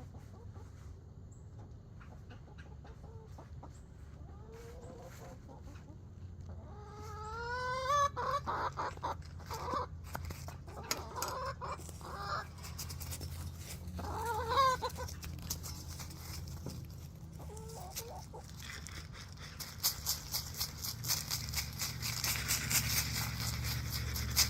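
Backyard chickens clucking, with a loud upward-gliding call about eight seconds in and another near fifteen seconds. A steady low hum runs underneath, and a hiss with rapid ticks comes in over the last few seconds.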